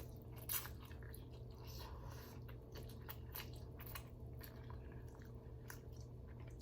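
Close-miked chewing of spicy ramen noodles and vegetables, heard as many short, soft mouth clicks, with a slightly louder one about half a second in.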